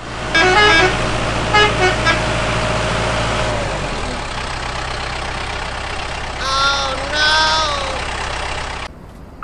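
Sound effect of a motor vehicle's engine running, with a couple of short horn toots early on and two longer toots later. It cuts off suddenly near the end.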